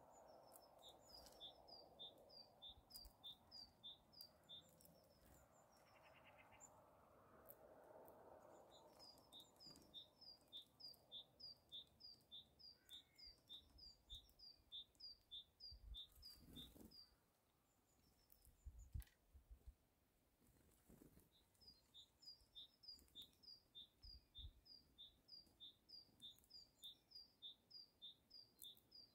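A small songbird singing faintly, repeating a two-note phrase, high then lower, about twice a second, in three long runs.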